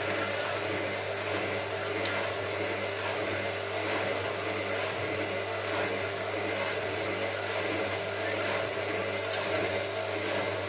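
Hotpoint 9534A washing machine running steadily with an even whirr and a constant low hum, most likely an interim spin between rinses.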